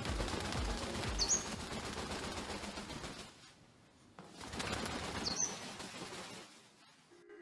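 A Congo African grey parrot flapping its wings in two bouts, with a short high chirp in each.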